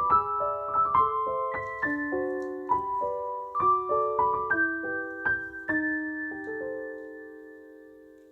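Background piano music, a gentle melody of single notes and chords; the last chord rings and fades away over the final couple of seconds.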